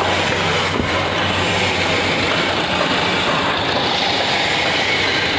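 Renault Duster 110 PS 1.5 dCi diesel engine idling with a steady 'tak tak' knock, a complaint that is worse when cold and comes with white smoke in the morning. The knock is put down to the injectors.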